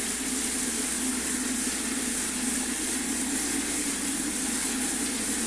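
Bathroom tap running steadily into a sink: an even rushing hiss with a low hum under it.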